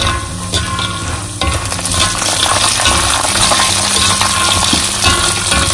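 Peanuts frying in oil in a wok, a steady sizzle with the clatter of a metal spatula stirring and scraping the nuts against the pan. The peanuts are near the end of frying, turning fragrant and crisp.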